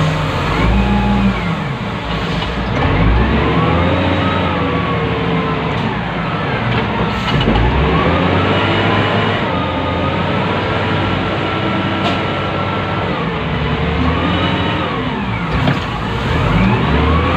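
Wheel loader's diesel engine heard from inside the operator's cab, revving up and dropping back several times as the machine works, with a rising and falling whine.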